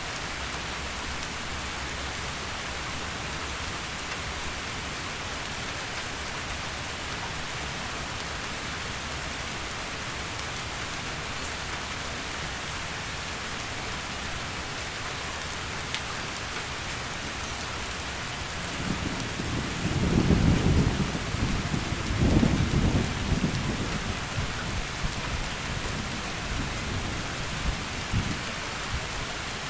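Steady heavy rain, with a rumble of thunder rolling in about two-thirds of the way through, peaking twice and trailing off.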